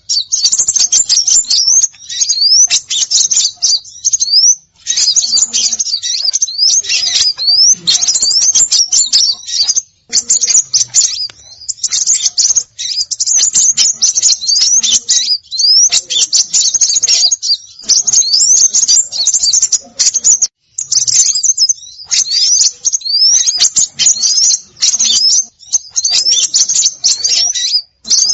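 Bird-lure recording of small songbirds: dense, high-pitched chirping and twittering with quick rising whistles repeated over and over, broken only by a few brief pauses.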